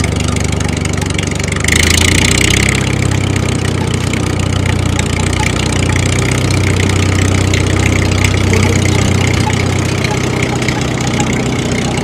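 A motor running steadily with an engine-like hum, briefly louder and hissier about two seconds in.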